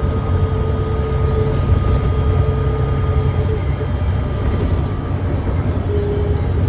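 Volvo D9B diesel engine of a Volvo B9TL double-decker bus running steadily under way, heard from inside the bus: a loud, even low rumble with faint steady whines over it. The bus has a known exhaust leak that gives its engine note a thrashy edge.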